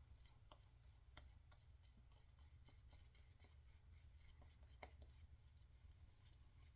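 Near silence: room tone with a low hum and a few faint, scattered ticks.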